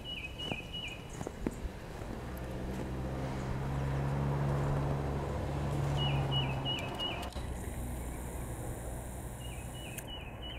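A small songbird singing a quick phrase of four repeated notes, three times. A low drone swells and fades in the middle and is the loudest sound.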